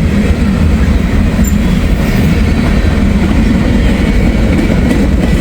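Freight train of grain hopper cars rolling past close by: a loud, steady rumble of wheels on rail.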